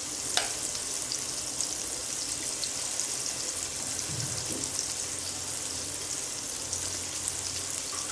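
Marinated paneer cubes sizzling in butter in a nonstick frying pan: a steady high hiss with small crackles. A single sharp click comes about half a second in.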